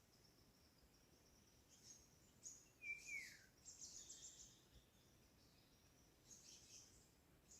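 Faint birdsong: bursts of high chirping starting about two seconds in, with a short whistle sliding down in pitch about three seconds in, and more chirps near the end.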